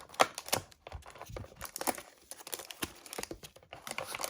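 Foil trading-card booster packs crinkling and rustling as they are handled, with many irregular crackles.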